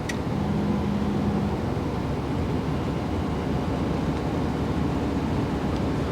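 Steady road and engine rumble inside a moving car's cabin, with a low steady hum for about a second near the start.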